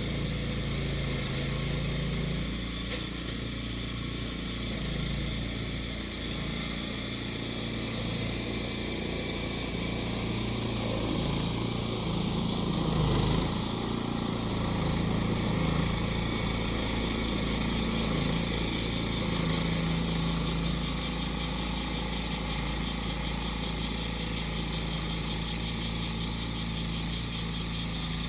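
Small engine of a grass-cutting machine running steadily, with cicadas buzzing over it in a high, rapidly pulsing drone.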